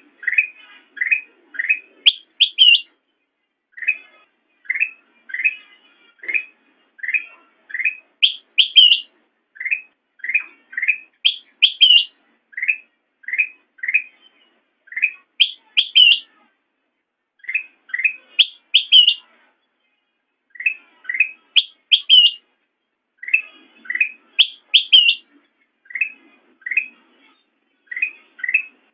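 Kutilang emas, a bulbul, singing a repeated phrase: a run of short chirps followed by two or three louder, higher whistled notes. The phrase comes again about every three seconds.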